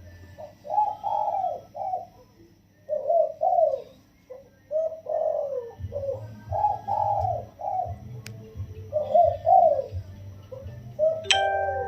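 Spotted dove cooing, about six soft, rolling coo phrases in a row. There is a sharp click about 8 seconds in and another near the end.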